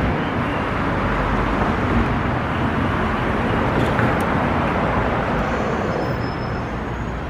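Steady road traffic noise from passing cars, a continuous rushing hiss with no distinct events.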